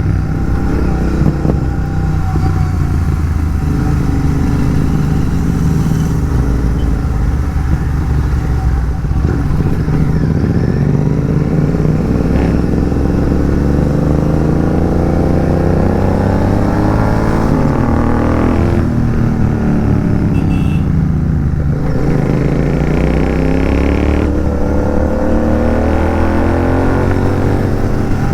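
Royal Enfield Continental GT 650 parallel-twin engine on the move through an aftermarket megaphone exhaust. It runs steadily at first, then its pitch climbs for several seconds under acceleration, drops sharply at a gear change, and climbs again near the end.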